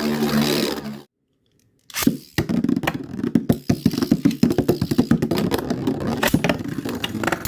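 A steady humming whine cuts off about a second in, leaving a moment of silence. Then two metal Beyblade spinning tops clatter in the stadium, a rapid, irregular run of sharp knocks and clicks as they hit each other and the walls.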